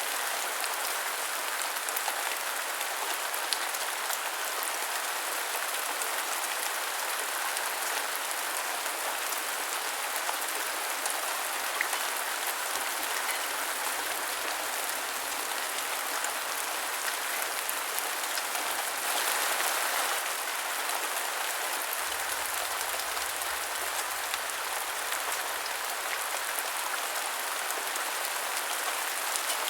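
Steady heavy rain, a dense even hiss of drops with scattered small ticks, swelling briefly about two-thirds of the way through.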